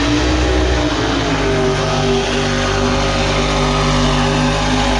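Vehicle engine held at high revs at near-steady pitch, with small rises and dips, as a competitor runs the mud pit at full throttle.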